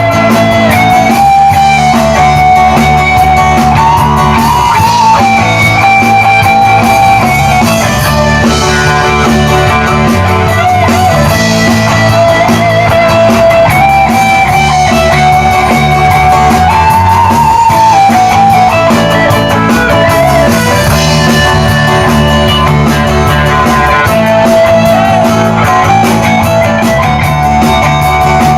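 Live rock band playing an instrumental passage with no vocals: an electric guitar carries a melody with bent notes over steady bass and drums.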